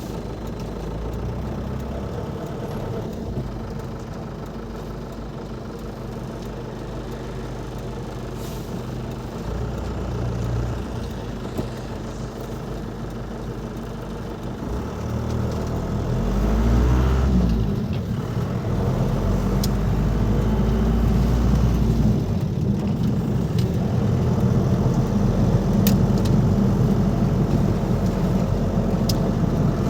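Ford Transit Mk5's 2.5-litre diesel engine running as the van is driven; about halfway through the engine note rises and the van gets louder, then holds a steady, heavier drone.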